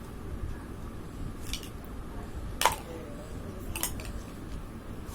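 Plastic nesting-egg toy pieces clicking and knocking together as they are handled, three sharp clicks with the loudest about halfway through.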